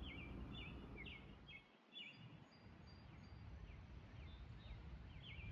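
Faint small-bird chirping: quick, short downward-sliding chirps in clusters near the start and again near the end, sparser in between, over a low background hiss.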